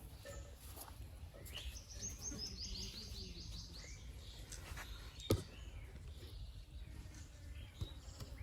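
Small bird chirping, with a quick run of about a dozen short, high, falling chirps about two seconds in and scattered chirps after it, over a steady low rumble. A single sharp click a little past the middle is the loudest sound.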